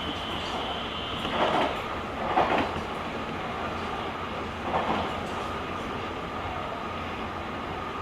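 Running noise of a JR Kyushu 883 series limited express train, heard from the deck of the GTO-inverter motor car KuMoHa 883-8. A high steady whine cuts out under two seconds in, and a lower steady tone comes in about five seconds in. Louder thumps sound about one and a half, two and a half and five seconds in.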